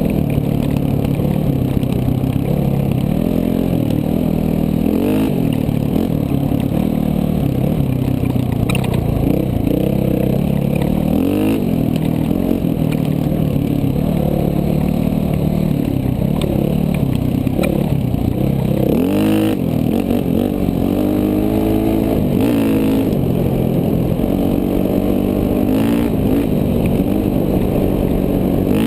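KTM 450 dual-sport motorcycle's single-cylinder four-stroke engine being ridden hard, its pitch rising and falling over and over with throttle and gear changes.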